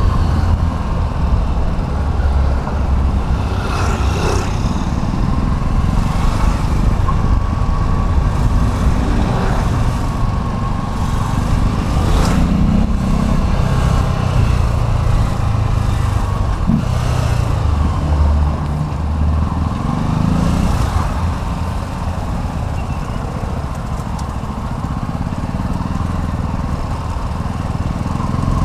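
Small motorcycle engine running steadily while riding in city traffic, with low, rumbling road noise and a few brief swells as other vehicles pass.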